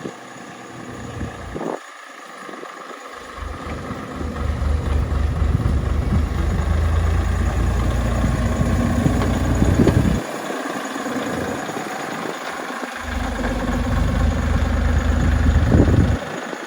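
A miniature railway locomotive's engine running with a low rumble. It gets louder twice, from about three seconds in and again near the end, and drops away suddenly each time.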